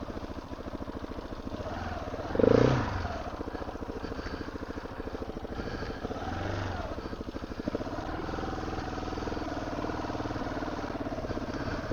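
Motorcycle engine running with a rapid, even beat, with a brief louder swell about two and a half seconds in.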